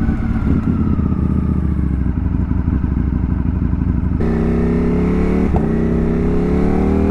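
Ducati motorcycle engine running on the road, with wind rush. About four seconds in the sound changes abruptly, and the engine note then climbs steadily as the bike accelerates.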